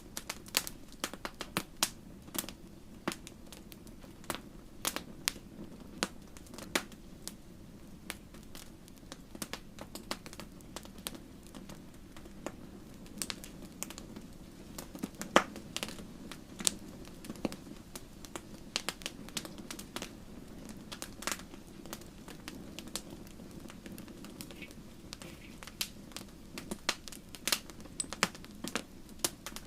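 Wood fire in a fireplace crackling, with irregular sharp pops and snaps, several a second at times, over a soft steady rumble of the flames.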